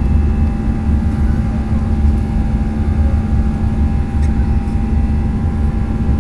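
Airliner cabin noise in flight: a steady low rumble of engines and airflow, with a constant hum and a few high whining tones over it.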